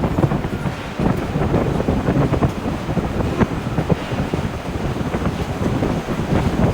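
Forge shop noise: a steady low rumble with frequent light knocks and clatters, and no heavy regular hammer blows.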